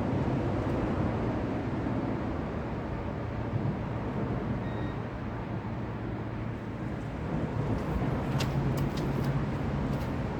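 Steady traffic noise from a nearby highway, a continuous road rumble with a low hum, and a few faint clicks near the end.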